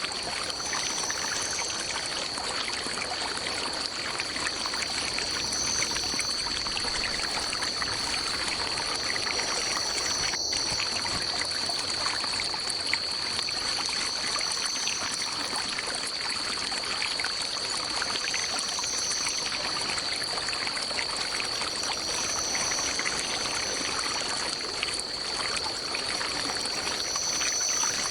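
Water running steadily in a stream, with a continuous high-pitched drone over it and short high calls recurring every few seconds.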